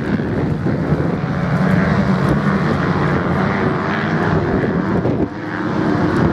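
Racing motorcycle engines running at high revs in a continuous drone that dips briefly about five seconds in.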